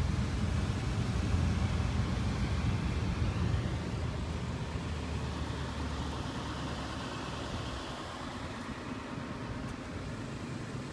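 2001 Mitsubishi Montero Sport's 3.0-litre V6 idling with a steady low hum, a little quieter in the second half.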